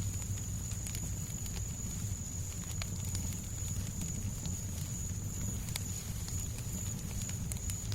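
Fireplace fire crackling, with irregular sharp pops and snaps over a steady low rumbling hiss of white noise. A thin, steady high tone runs underneath.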